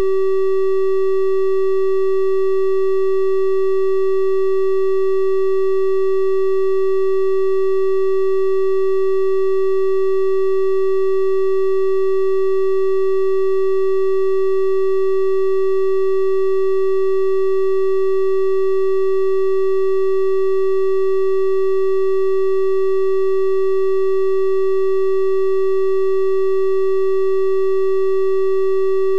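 Steady synthetic 384 Hz triangle-wave tone, one unchanging pitch with faint higher overtones.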